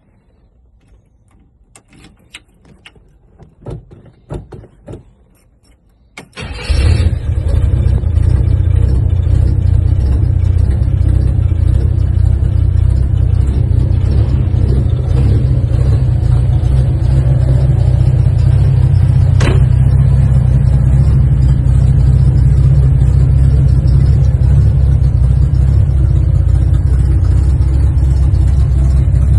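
Chevrolet Impala station wagon engine on a cold start: a few clicks and knocks, then about six seconds in the engine catches and settles into a steady, loud, low idle.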